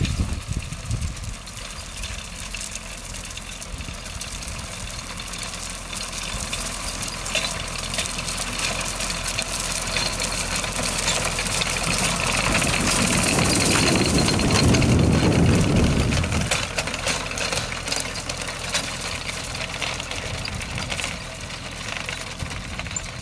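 Leyland 154 tractor engine running steadily while mowing with a Ferguson finger-bar mower. It grows louder to a peak about two-thirds of the way through as the tractor passes close, then fades somewhat.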